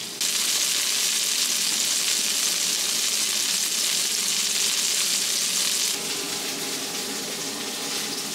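Turkey burgers sizzling in melted bacon grease in a large cast iron skillet, a steady crackling hiss that comes in loud just after the start and drops to a quieter level about six seconds in.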